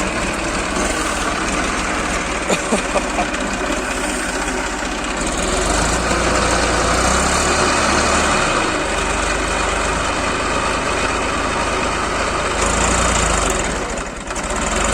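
Farm tractor engine running steadily. It gets louder about halfway through and dips briefly near the end.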